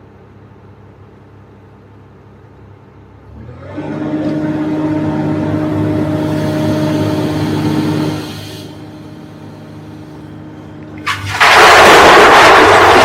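Komatsu PC350LC excavator's diesel engine running low, then revving up about three and a half seconds in and holding a steady higher note for some four seconds before dropping back. About eleven seconds in a much louder, rough rushing noise takes over to the end.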